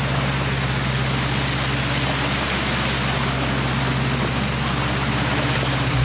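Steady rushing of floodwater runoff pouring down from the hillside after heavy rain, with a car engine's low steady hum underneath.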